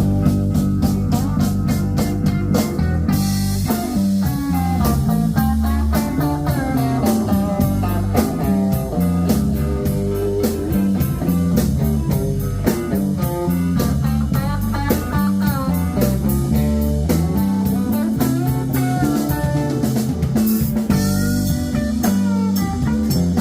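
Rock band playing an instrumental passage: electric guitar lead with bass and drum kit keeping a steady beat.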